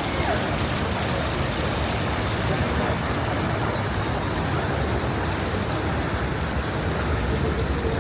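Steady, dense outdoor background noise with a heavy low rumble and no distinct single events.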